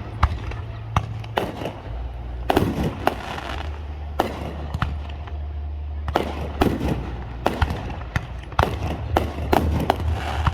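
Aerial fireworks going off in quick succession, a dozen or more sharp bangs, some trailed by crackling, over a steady low rumble.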